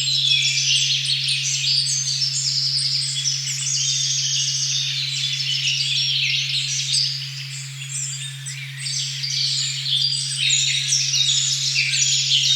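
A steady pure 136.1 Hz tone, the 'OM' frequency, holds unbroken under a forest recording full of many birds singing at once, with overlapping high chirps and trills throughout.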